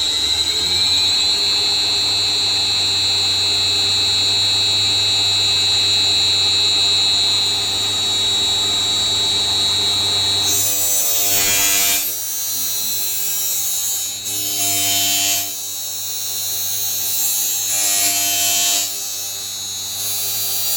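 HSS saw-blade grinder running its automatic resharpening cycle. A steady motor whine for about ten seconds gives way to short bursts of grinding hiss as the grinding wheel meets the blade, repeating roughly every three and a half seconds as it works through the teeth.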